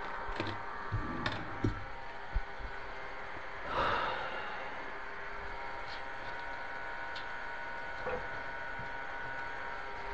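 A few light knocks and clicks of parts being handled during cabinet work, with a brief scraping rustle about four seconds in and a few faint ticks after, over a steady faint hum.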